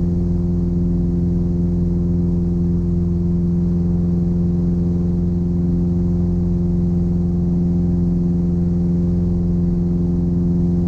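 Steady drone of the Piper Apache's engine and propeller heard in the cabin. It is flying on one engine, the other throttled back for a simulated failure with its propeller windmilling.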